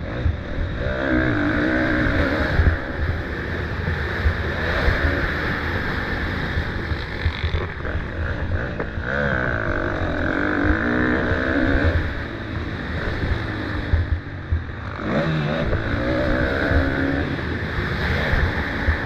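Motocross dirt bike engine revving hard and easing off again and again as it is ridden around the track, over a constant deep rumble.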